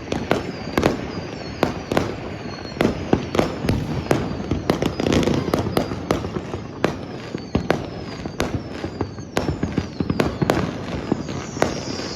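Many fireworks going off at once: an irregular, dense run of sharp bangs, several a second, over constant crackling, with high whistles falling in pitch.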